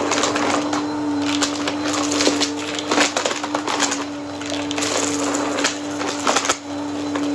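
Vacuum cleaner running with a steady motor hum while its brush roll sucks up crunchy debris, giving irregular sharp crackles and snaps.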